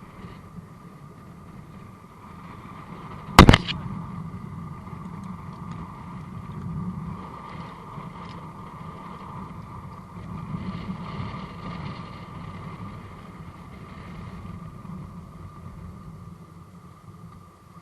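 Steady wind noise with a constant hum, and one loud, sharp knock about three and a half seconds in.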